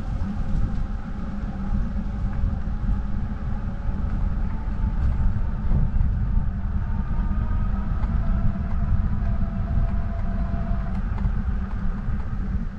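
Steady wind rumble on the microphone of a moving bike, with faint, slowly wavering hum tones above it.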